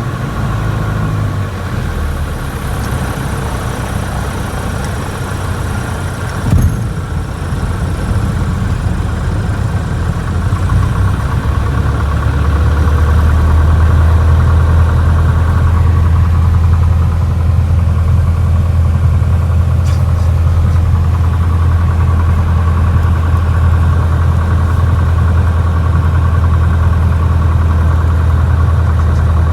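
Piper PA-28's single piston engine and propeller running steadily, with one sharp knock about six and a half seconds in. The engine's low drone grows louder about twelve seconds in and then holds steady.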